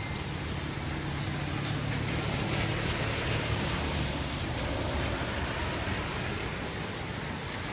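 Steady rain falling, with a low rumble that swells to a peak about halfway through and then fades.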